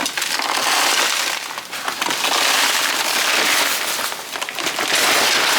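Heavy stone block being rolled and shifted over gritty soil, a continuous gritty crunching and scraping.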